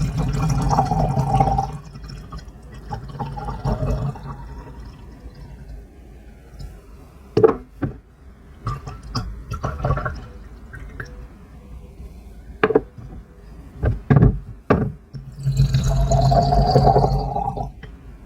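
Liquid poured in a steady stream into a small vessel, filling it, twice, with a quieter trickle between: brewing shou puer in a zisha clay teapot. Between the pours come several light clinks of ceramic teaware.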